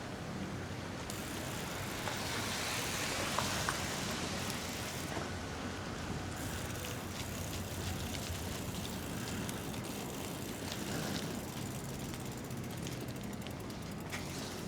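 Steady road noise of a bicycle being ridden on wet, slushy city streets, with its tyres running through slush.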